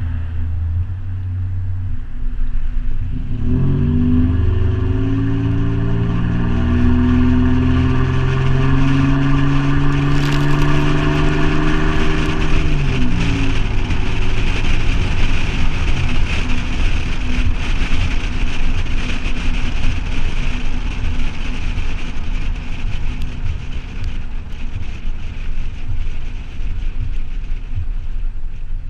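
Toyota 4Runner with a Flowmaster 40 Series exhaust accelerating. The exhaust note climbs steeply about three seconds in, holds for several seconds and drops off about halfway through, leaving a steady rush of road and wind noise.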